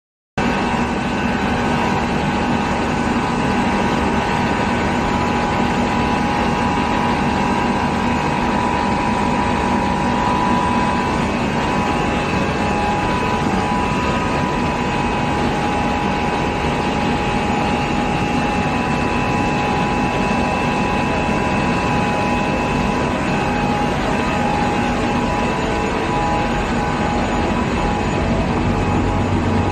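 Adult diaper production machine running with its recycled fluff pulp milling and feeding system: a loud, steady machine drone with several constant whining tones held throughout.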